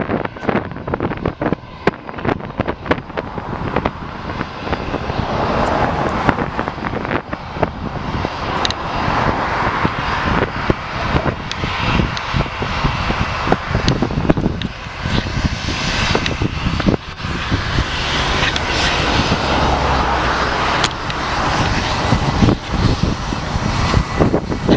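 Jet engines of an Airbus A320 running, a steady rush that swells and eases, mixed with heavy wind buffeting on the microphone.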